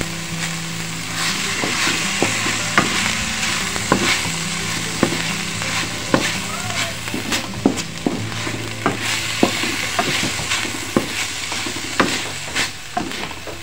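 Minced croquette filling sizzling in a wok, cooked down until dry, while a wooden spatula stirs and scrapes through it, with frequent sharp clacks of the spatula against the pan.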